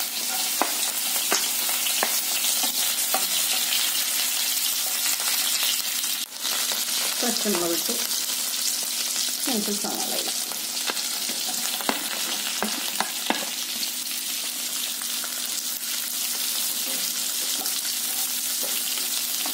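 Slivered ginger, garlic and green chillies, then sliced onions, sizzling steadily in hot oil in a nonstick pan, with the scattered clicks and scrapes of a wooden spatula stirring them.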